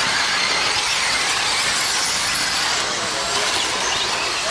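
Several radio-controlled electric modified stadium trucks racing on a dirt track: a steady wash of high motor whine and tyre noise, with faint high whines wavering up and down as the trucks speed up and slow.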